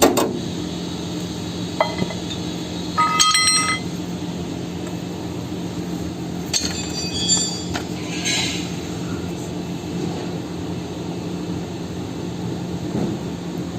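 Steel tools clinking and ringing against metal in a chassis repair, with the longest ringing clinks about three seconds in and again around seven seconds. A steady machine hum runs underneath.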